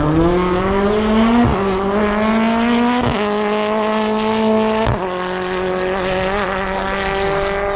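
BTCC touring car's turbocharged four-cylinder engine under hard acceleration. Its pitch climbs and drops sharply at three quick upshifts, about a second and a half in, three seconds in and five seconds in, then holds fairly steady at high revs.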